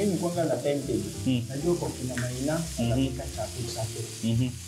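Omena frying with tomatoes in a pan, sizzling steadily, under a louder pitched background of shifting notes.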